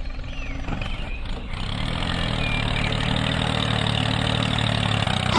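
Tractor engine running steadily, growing louder and fuller about one and a half seconds in as the tractor approaches.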